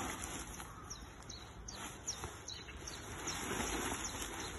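Small birds chirping, a string of short high notes sliding downward, over a steady outdoor hiss and the rustle of a nylon paragliding harness being handled.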